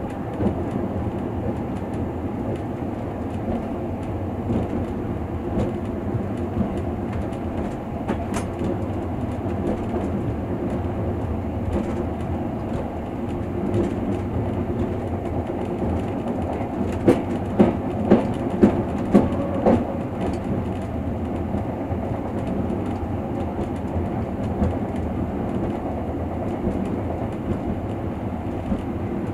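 Passenger train running on the track, heard from inside the carriage: a steady rumble of wheels and car. A little past halfway comes a run of about seven sharp clacks, roughly two a second, as the wheels pass over the track.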